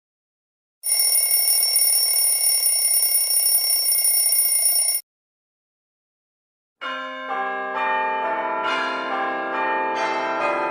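A bell ringing steadily for about four seconds and stopping abruptly. After a short pause, bells or chimes start ringing with many overlapping tones, new notes coming in a couple of times.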